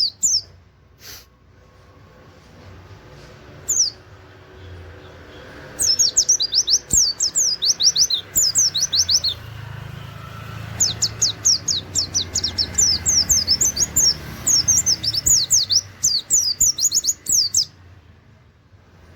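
Caged white-eye (pleci) singing: a few single high chirps, then two long runs of rapid, high, sweeping notes separated by a short pause, the fast 'nembak' song style.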